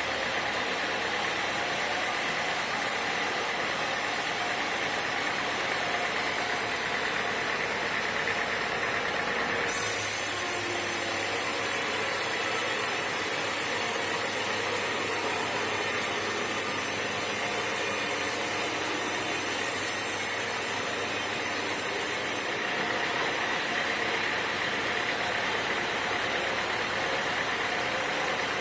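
Sawmill machinery running steadily. A high hiss comes in abruptly about ten seconds in and cuts off about twelve seconds later.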